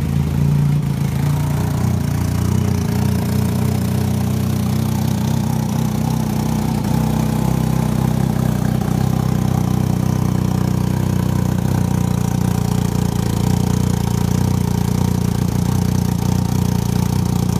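2012 Arctic Cat M1100 Turbo snowmobile's turbocharged four-stroke twin idling steadily just after a cold start at about 0 °F.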